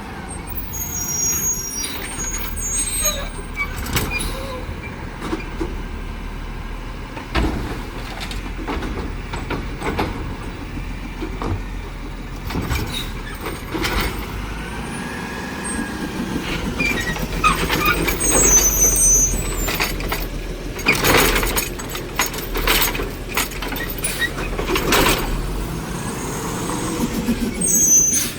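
Heil Rapid Rail side-loader garbage truck working a collection stop: the diesel engine runs steadily under a series of sharp clanks and knocks, with brief high-pitched squeals and air-brake hiss.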